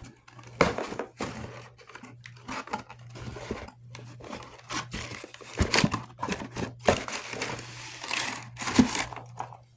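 A parts package being torn open by hand: irregular tearing and crinkling of the wrapping and packing material, over a steady low hum.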